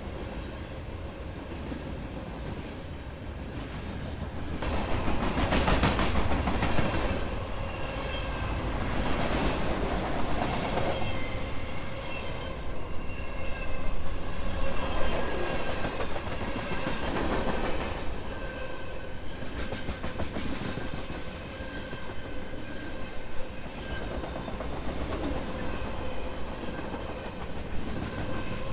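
Freight train cars rolling past, their wheels clicking over the rail joints. It grows louder about five seconds in and keeps up a steady rolling noise.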